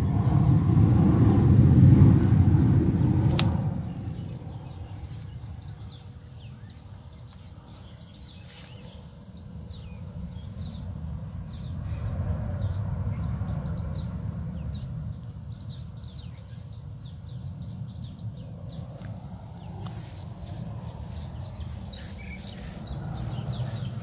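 Garden birds chirping in many short, scattered high notes, busier in the second half, over a low rumble that is loudest in the first few seconds.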